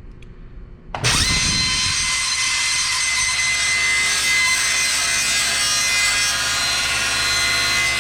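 A 10-inch table saw switched on about a second in, its motor and blade spinning up quickly and then running steadily at full speed with a steady high whine.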